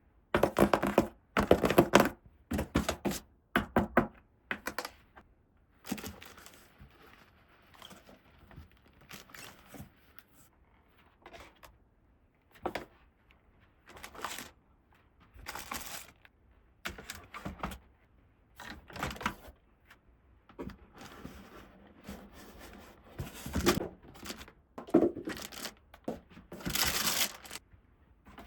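Toy pieces and packaging being handled: an irregular string of short clicks, taps and crinkling rustles, busier in the first few seconds and again toward the end.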